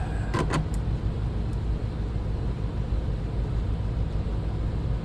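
A steady low machine hum, typical of a sharpening machine's motor running, with two sharp metallic clicks about half a second in, such as shear blades being handled.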